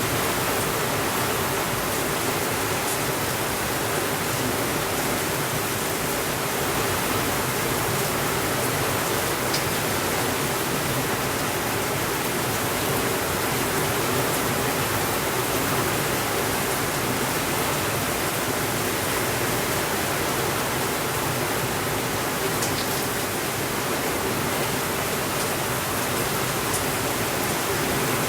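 Steady rainfall, a dense even hiss with no breaks, with a few faint ticks.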